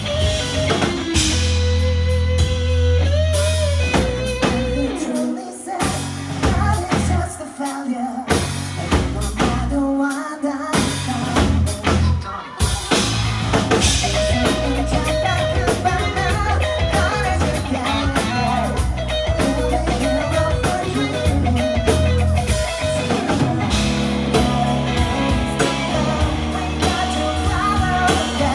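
Live rock band playing: singing over electric guitar, bass and drum kit. A few seconds in, the band thins out and the low end drops away several times, then the full band comes back in.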